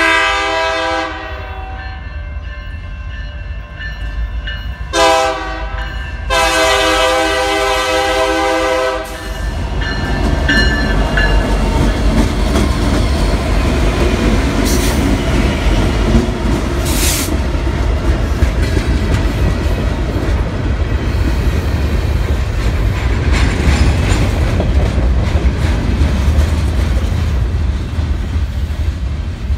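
BNSF GP60M-3 diesel locomotives sounding the horn: a short blast, a brief toot, then a long blast a few seconds later. The locomotives then pass close by with a loud, steady engine rumble and wheel noise on the rails as the freight cars roll past.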